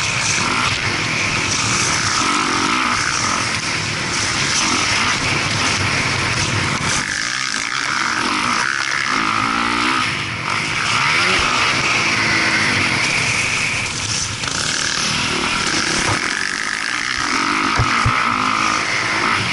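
Motocross dirt bike engine revving up and falling back again and again.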